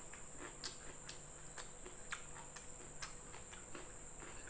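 Close-up chewing of food: soft, wet mouth clicks about twice a second over a faint steady hum.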